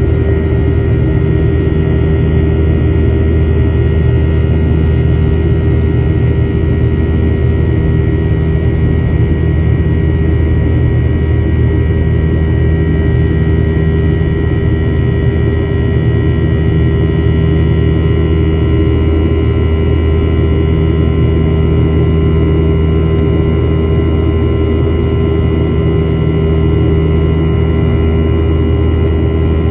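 Boeing 737-900ER's CFM56-7B jet engines running in a loud, steady drone: a deep hum with a few faint steady whining tones above it.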